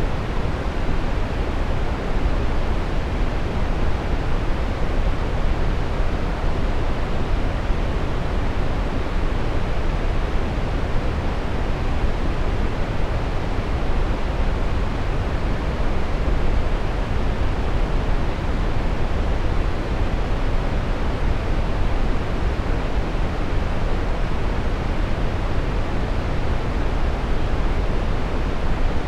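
Steady brown noise: an even, unchanging hiss with most of its weight in the low end, fading toward the highs, like a deep rumbling rush.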